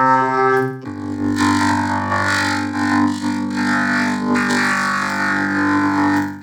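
Electronic, synthesizer-like sustained tones. About a second in, the sound changes to a steady low drone with pulsing higher tones on top.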